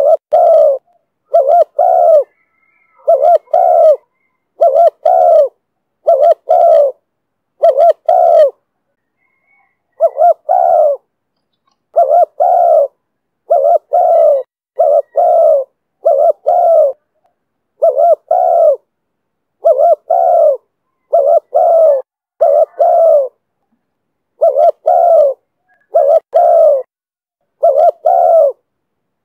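Spotted dove cooing over and over in the 'thổ thúc bổi' call style, each phrase a quick run of low notes, about one phrase a second with a short break about a third of the way through.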